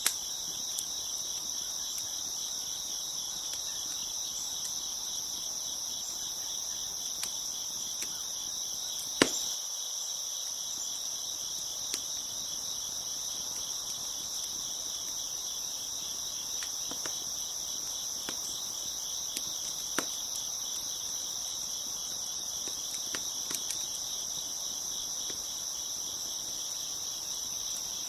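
A chorus of crickets chirping steadily in a high, pulsing drone, with scattered sharp pops and crackles from a wood fire; the loudest pop comes about nine seconds in and another about twenty seconds in.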